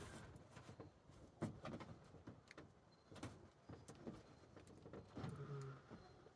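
Faint, scattered clicks and light knocks from hands working on the plastic roof box shell.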